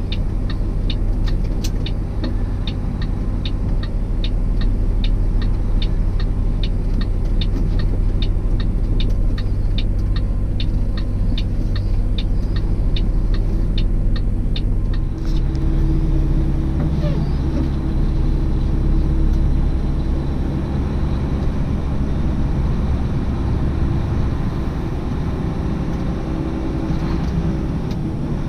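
Delivery truck's engine running steadily, heard from inside the cab, with a quick regular ticking of about three a second that stops about halfway through, when the engine note changes.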